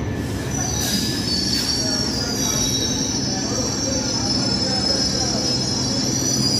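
Passenger train coaches running past close by with a steady rumble, over which a high-pitched metallic squeal from the wheels rises about half a second in and keeps going.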